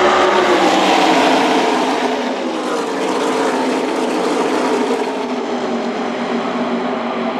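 A pack of NASCAR Truck Series trucks' V8 engines at full racing speed passing by, their pitch falling as the pack goes past, loudest in the first couple of seconds.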